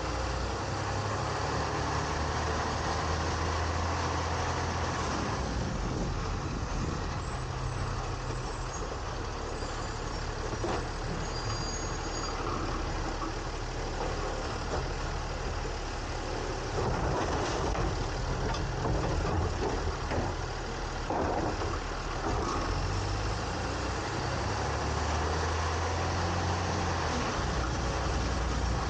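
Garbage truck running, its diesel-style engine note steady underneath with even road and machinery noise, the engine growing louder a few times as it picks up speed.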